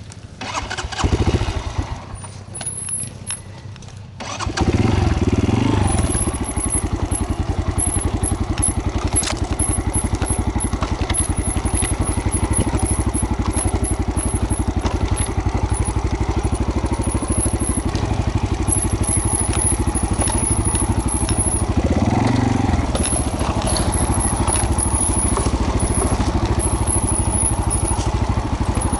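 Single-cylinder trail motorcycle engine started about four seconds in after a short burst of cranking, then idling steadily, with a brief rev a little before the end.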